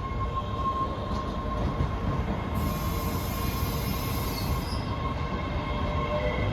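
MBTA Red Line subway train rolling into the station: steady rumble with a thin whine, and a high-pitched wheel squeal from about two and a half seconds in that lasts about two seconds.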